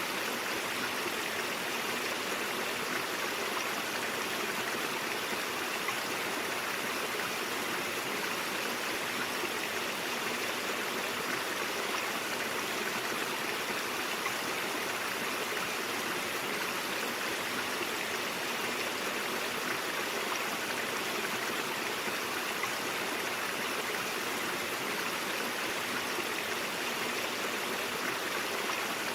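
Stream water flowing and babbling over rocks, a steady even rush with no breaks.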